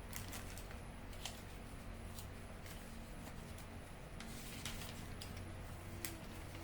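Scattered light clicks and taps of handling, irregular and about a dozen in all, over a low steady hum.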